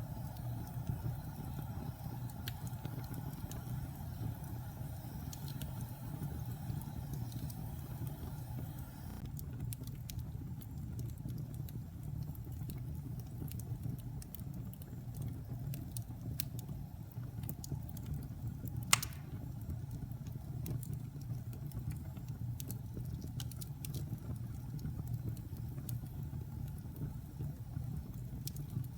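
Fire burning in a fireplace: scattered small crackles and one sharp, louder pop about two-thirds of the way through, over a low steady rumble.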